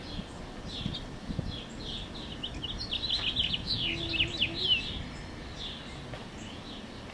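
Small birds chirping, with a quick, louder run of rapid chirps about halfway through.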